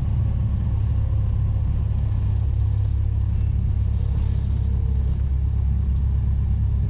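Cessna 172's engine running steadily at low power after landing, a continuous low rumble heard from inside the cockpit.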